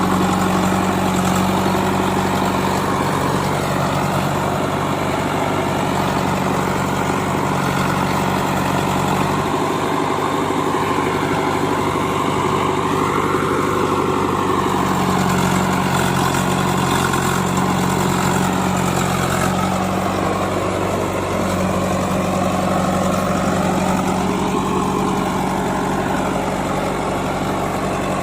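Heavy diesel engine running steadily at low speed with a continuous low hum. Its note changes briefly about ten seconds in and again around twenty seconds in.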